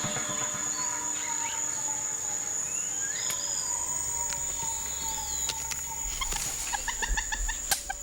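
Amazon rainforest ambience: a steady high-pitched insect drone, with whistled bird calls gliding up and down. Near the end a run of quick repeated calls comes in.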